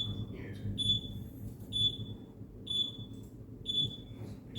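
Electronic alarm beeping: a short, high beep about once a second, over a steady low hum.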